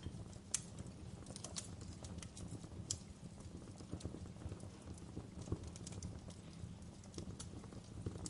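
Wood fire crackling in a fireplace: irregular sharp pops and ticks, a few louder ones about half a second in, near three seconds and about five and a half seconds in, over a steady low rumble.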